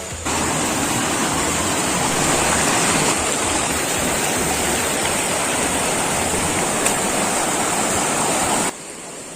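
Waterfall pouring: a steady rush of falling water that cuts off suddenly near the end.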